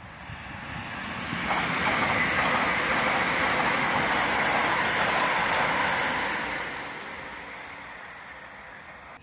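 London Northwestern Railway Class 350 electric multiple unit passing at speed: the rush of wheels on rail swells as it approaches, stays loud for a few seconds as it goes by, then fades away.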